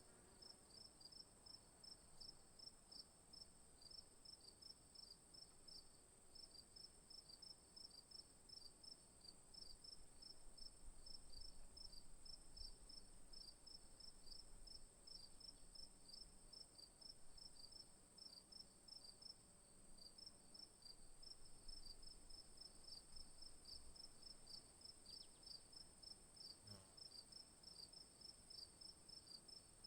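Faint insect chorus typical of crickets: a steady high trill with rapid, evenly repeated chirps over it.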